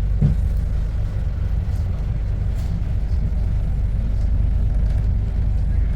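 Steady low rumble of a moving bus, heard from inside: engine and road noise.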